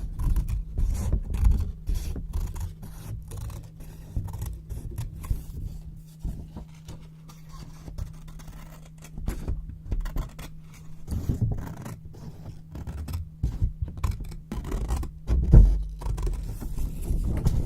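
Scissors cutting white paper, close up: irregular snips and paper rustling and scraping, with a louder low bump of handling about fifteen seconds in, over a faint steady low hum.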